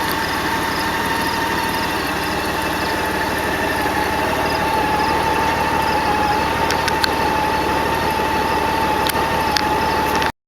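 A vehicle engine idling steadily, with a steady high whine over it, which cuts off abruptly near the end.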